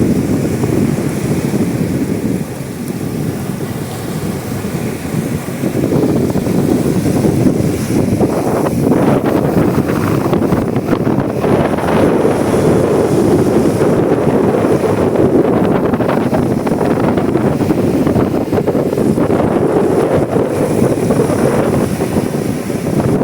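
Strong wind and sea waves, the wind buffeting the microphone in a loud, rumbling rush that swells and eases.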